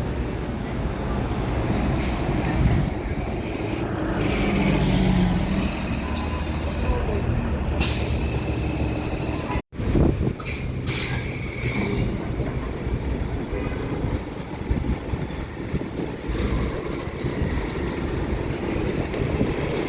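Transit buses running and idling at the curb: a steady low engine rumble, with several short air-brake hisses. The sound cuts out for a moment about halfway through.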